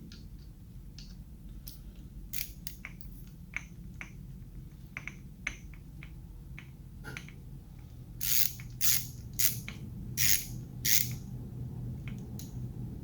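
Hand tools working on an engine's timing components: scattered light metallic clicks and clinks, then five short rasping strokes about half a second apart near the end, over a low steady hum.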